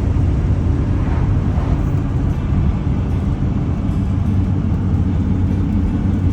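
Steady low rumble of a motor vehicle, with no breaks or changes.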